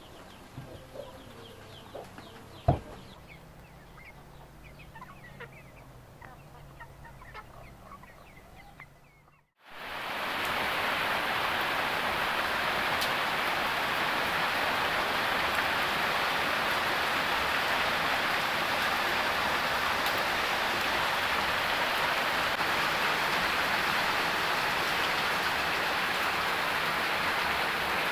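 Heavy rain falling in a steady, even downpour, which starts suddenly about ten seconds in after a brief dropout. Before that, a quieter stretch with faint clucking chicken calls and one sharp knock.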